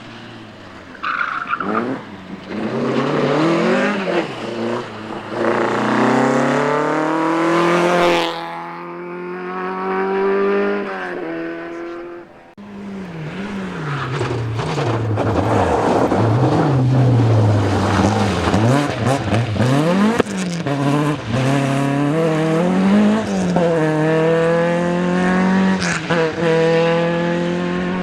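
Rally car engines revving hard through corners, the pitch climbing and dropping again and again with gear changes and lifts off the throttle. The sound changes abruptly about eight seconds in and again around twelve seconds.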